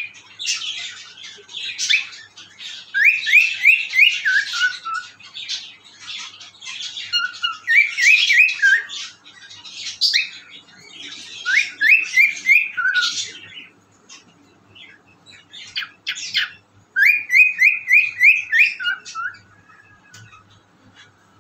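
A cockatiel whistling: a phrase of four or five quick upward-sliding whistles, repeated several times, with harsh chattering in between. It goes quieter near the end.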